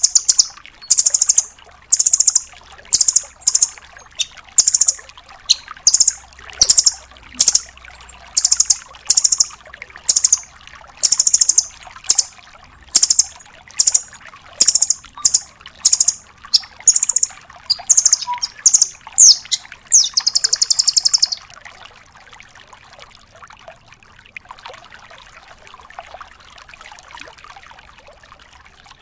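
Velvet-fronted nuthatch giving a long series of sharp, high-pitched calls, about one to two a second, that stops about 21 seconds in, leaving only a faint background hiss.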